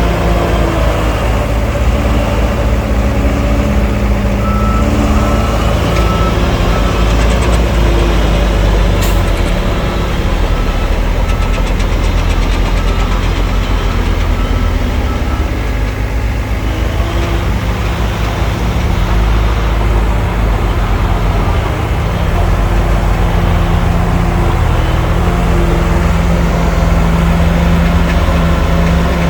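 Heavy diesel engines of earthmoving machinery running continuously, their pitch shifting as they work. A reversing alarm beeps in two runs, about five seconds in and again around twelve to fifteen seconds in.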